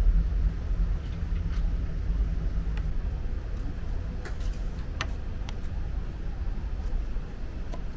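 Steady low rumble of a moving Amtrak Empire Builder passenger train, heard from inside the car. A few light clicks of a metal fork against a plate come about four to five and a half seconds in.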